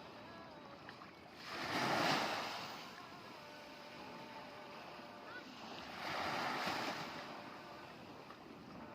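Sea waves breaking on the shore: two surges of wash, the first about a second and a half in and the second about six seconds in, over a steady background of surf.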